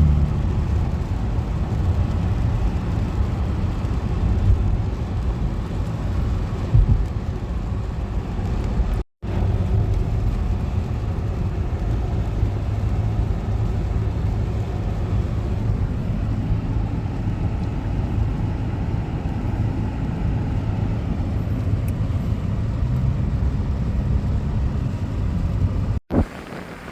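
Steady low rumble of road and engine noise inside a moving car, broken off briefly twice.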